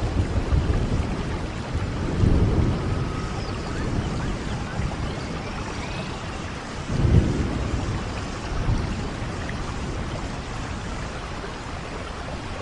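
Steady rain falling, with low rolls of thunder swelling up about two seconds in and again, loudest, about seven seconds in.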